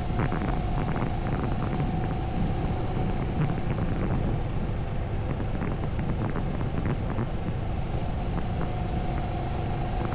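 Moto Morini 6½ Scrambler's parallel-twin engine running at a steady cruise, mixed with wind rushing over the camera microphone, with a steady whine above the rumble.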